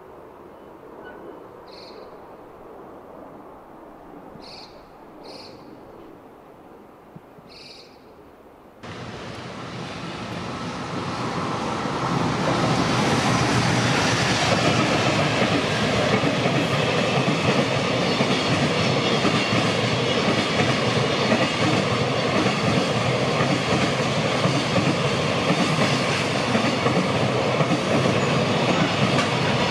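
A JR Freight EF210 electric locomotive hauling a container freight train past at speed: a loud, steady rumble of wheels on rail with clickety-clack from the wagons. Before it, about nine seconds of quiet with a few short high chirps, then the train noise starts suddenly and builds over about three seconds.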